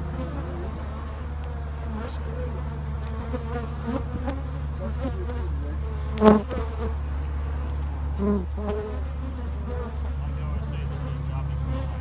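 Africanized honeybees buzzing all around the microphone. Single bees fly close past it, loudest about six seconds in and again about eight seconds in, over a steady low hum.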